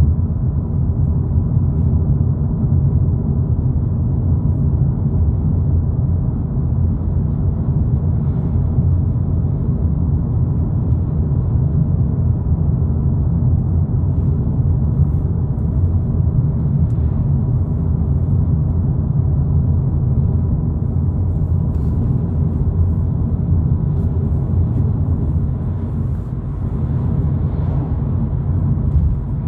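A 2022 Volkswagen Polo GTI driving at a steady speed: a constant low rumble of engine and tyre noise, heard from inside the car, easing slightly near the end.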